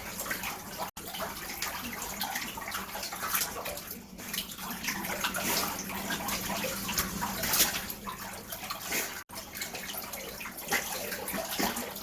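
Running water splashing in a bathtub as a Labrador retriever is bathed, a steady rush with irregular splashes. The sound cuts out for an instant twice.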